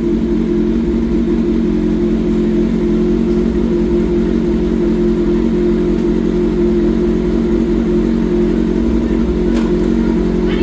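Kawasaki ZX-6R inline-four engine running at a steady speed through an M4 exhaust with its baffle removed; the pitch holds level with no revving.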